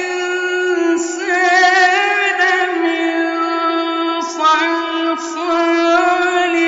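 A man's high voice chanting Quran recitation in the melodic mujawwad style, holding long notes with wavering, ornamented runs and short breaks between phrases.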